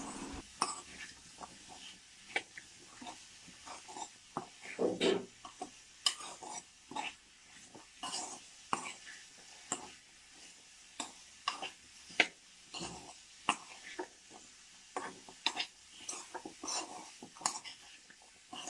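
A spatula scrapes and knocks against a kadai while colocasia stem pieces are stir-fried in masala and oil, giving irregular clicks and scrapes one or two times a second.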